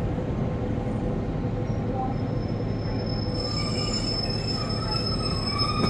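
Diesel passenger train running with a steady low rumble. About halfway through, a thin, steady, high-pitched squeal from the train sets in.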